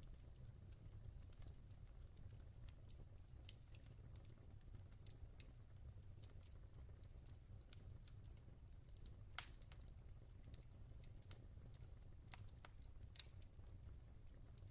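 Log fire crackling faintly, with scattered small pops and one louder pop a little past the middle.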